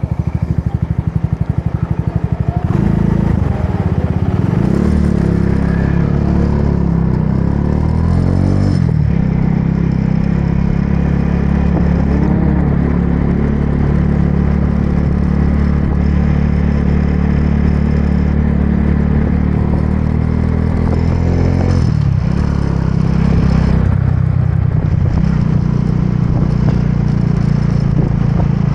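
Motorbike engine running while riding, its pitch rising and falling several times as the bike speeds up and slows down.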